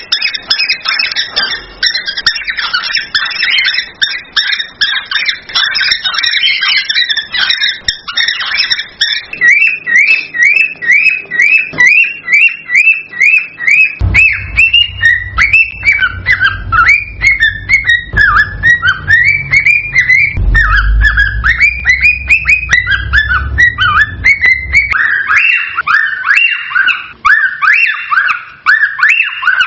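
Cockatiels whistling and chirping in a continuous stream of rapid, repeated rising-and-falling notes: the excited song of a male cockatiel courting. A low rumble runs under the calls through the middle of the passage.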